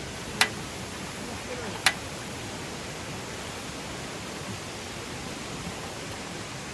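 Steady rushing of a stream running past, with two sharp clicks about half a second and two seconds in.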